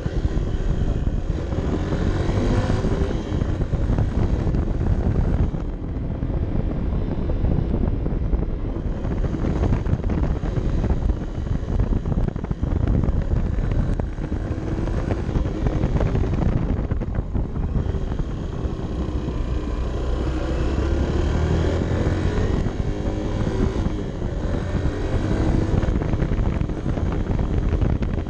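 Honda CB 125 F's air-cooled single-cylinder four-stroke engine pulling under load while riding, its pitch rising and falling with the throttle and the gear changes. The throttle is eased off briefly about six seconds in and again around seventeen seconds in, with wind noise on the microphone.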